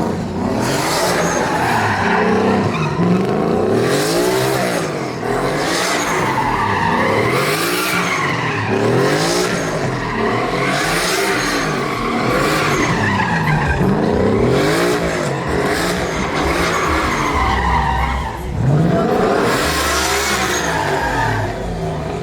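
Truck engine revving hard during a burnout, its pitch climbing and dropping over and over about every second and a quarter, with tires squealing and spinning against the pavement.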